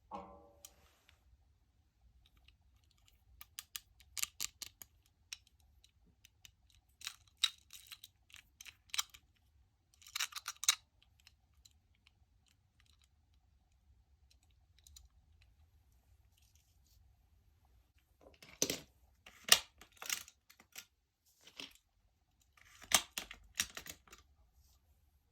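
Irregular clusters of light, quick clicks and clatters from small plastic and die-cast toys being handled, with quiet pauses between the clusters.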